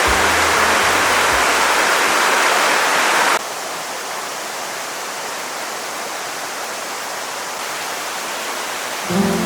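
Steady rushing outdoor noise that drops suddenly to a quieter rush about three and a half seconds in. The tail of background music fades out in the first two seconds, and new music starts near the end.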